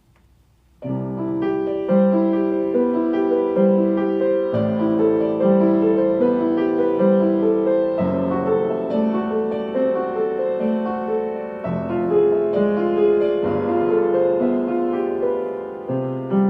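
Solo piano playing a slow melody over repeating broken chords in the left hand, starting about a second in.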